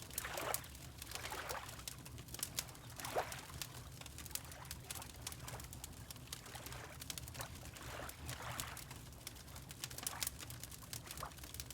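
Water lapping in soft, irregular splashes about once a second, over the sharp little crackles of a wood fire and a steady low rumble.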